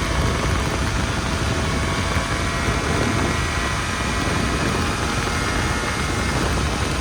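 Snowmobile engine running steadily: a low rumble under a thin, even whine.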